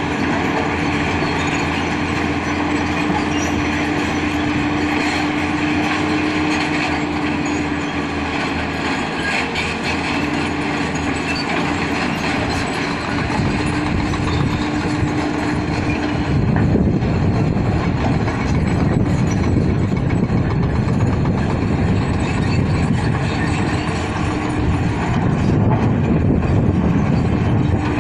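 Diesel engine of a heavy earthmoving machine running steadily with a held engine tone, growing louder and rougher about halfway through.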